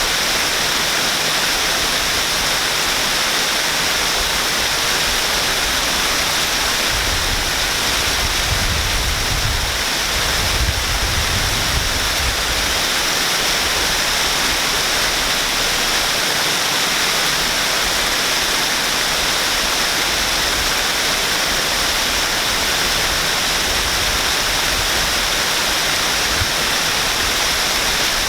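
Waterfall: a steady, even rush of falling water, with a deeper rumble swelling for a few seconds near the middle.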